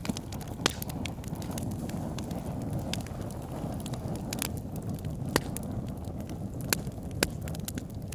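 Wood fire burning in a fireplace: a steady low rush of flames with constant small crackles and a few loud, sharp pops.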